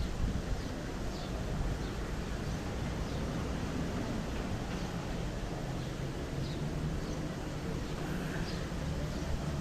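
Steady outdoor background noise with a low rumble, and faint short chirps high up every second or so.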